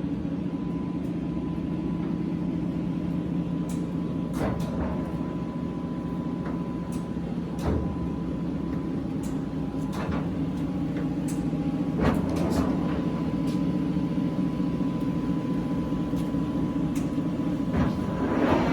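Large Tru-Turn engine lathe running with a steady mechanical drone and a faint steady whine. Scattered clicks and knocks come through, the sharpest about twelve seconds in.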